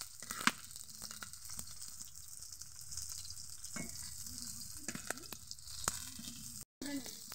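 Battered okra fritters sizzling in hot oil in a metal karahi. A metal spatula clicks and scrapes against the pan several times as the pieces are turned over.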